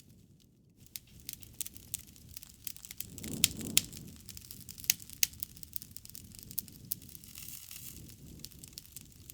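Wood bonfire crackling, with sharp pops scattered throughout. The loudest pops come about three and a half seconds in, together with a brief swell of low flame noise.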